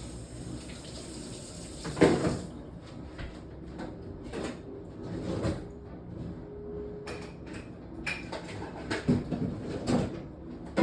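Kitchen tap running into a sink, shut off about two seconds in with a knock, followed by scattered clatter and knocks of kitchen handling.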